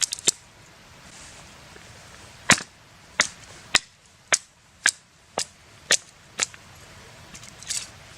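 A knife being struck through a piece of dry firewood to split it: a series of about eight sharp knocks, roughly two a second, with a few lighter clicks near the start and near the end.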